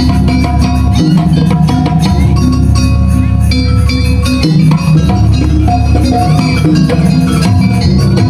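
Loud jaranan gamelan music: struck metal mallet instruments ringing out repeated notes over steady drumming.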